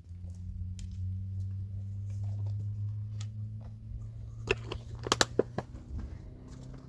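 A steady low electrical or mechanical hum, with a quick cluster of five or six sharp knocks about four and a half to five and a half seconds in.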